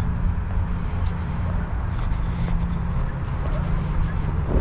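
Steady low rumble of road traffic heard from a walking trail.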